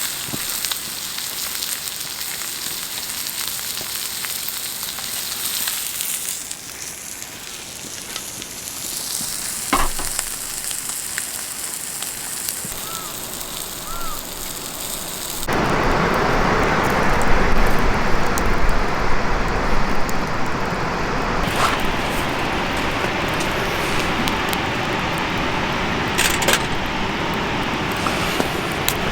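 Beef sizzling as it cooks over a campfire, an even high hiss. About halfway through the sound changes abruptly to a louder, fuller rushing noise with a few sharp cracks.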